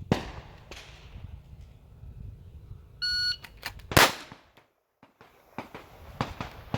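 Shot timer's start beep, followed about half a second later by a single 9mm pistol shot from a Glock 45 fired on the draw.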